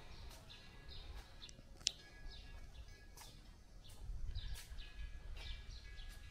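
Small birds chirping in short, sharp, falling calls, over a low rumble that grows louder about four seconds in.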